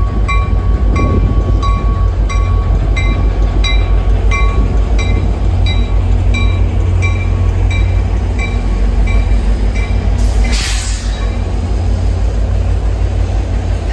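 Train running past with a heavy low rumble, while a bell rings steadily about twice a second and fades out about nine seconds in. A short hiss of air comes about ten seconds in.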